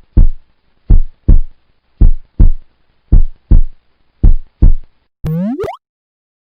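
Electronic heartbeat sound effect: five pairs of deep thumps, lub-dub, about one pair a second. Near the end comes a quick rising, whistle-like sweep that cuts off suddenly.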